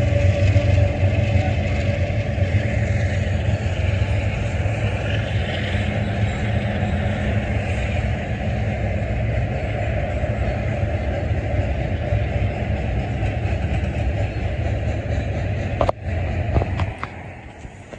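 Union Pacific train passing: a steady rumble of wheels on rail with a low engine hum. It drops away about sixteen seconds in, followed by a few sharp clicks.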